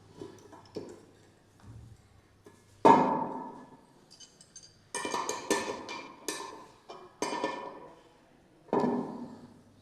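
A series of irregular sharp knocks and clinks of hard objects striking each other, each with a short ring, about nine in all, the loudest about three seconds in and several close together around the middle.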